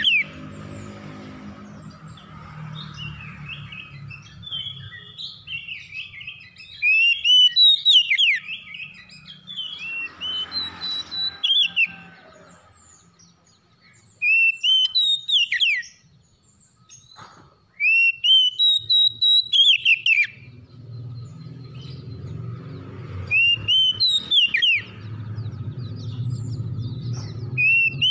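Oriental magpie-robin (kacer) singing: loud, varied whistled phrases with sharp downward sweeps, delivered in bursts with short pauses. A low hum sits underneath at the start and again near the end.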